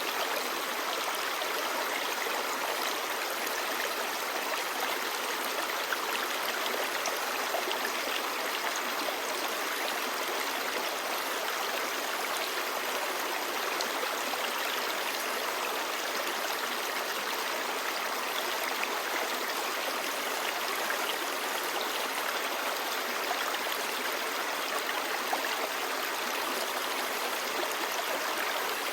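Clear stream babbling steadily, an even rush of flowing water with fine splashing and no pauses.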